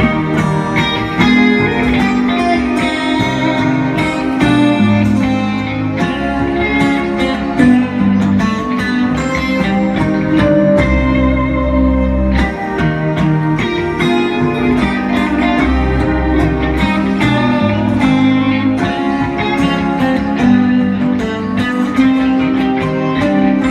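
Instrumental guitar music: a guitar plays a busy run of plucked melody notes over sustained bass notes, with no singing.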